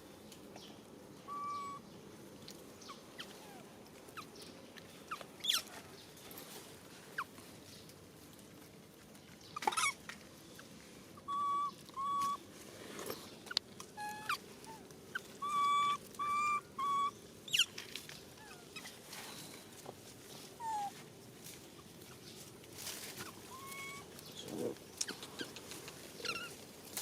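Short, clear animal calls, one by one and in a quick run of four about two-thirds of the way through, over outdoor background noise with scattered clicks and rustles.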